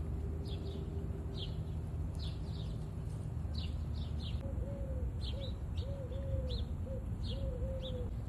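Small birds chirping over and over in short, high, falling notes. From about halfway through, a run of low, arching bird calls joins in. A steady low rumble lies underneath.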